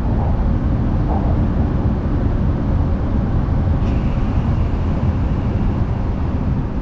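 Steady low rumble of a Hokuriku Shinkansen train heard from inside the passenger cabin as it slows into its final stop. A faint higher hiss joins about four seconds in, and the sound eases off slightly near the end.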